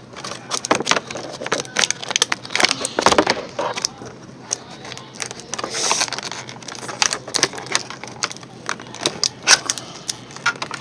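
Small plastic toys and packaging being handled: a steady run of irregular clicks and taps with some rustling.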